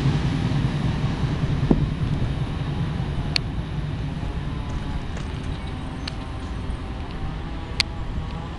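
Low rumble of an autorack freight train moving away, fading steadily, with a few sharp clicks.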